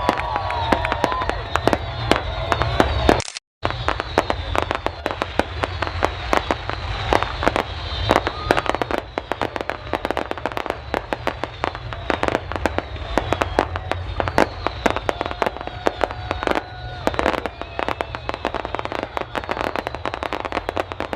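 A fireworks display crackling and popping in a dense, rapid string of sharp bangs over a steady low rumble, with crowd voices faintly underneath. The sound drops out completely for a moment about three seconds in.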